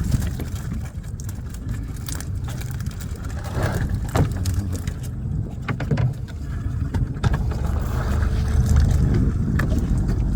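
Steady low rumble of a boat at sea, with scattered sharp knocks and clatter.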